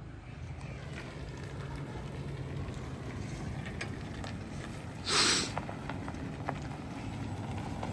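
Vehicle engine idling steadily, with scattered light clicks and one short, loud rushing noise about five seconds in.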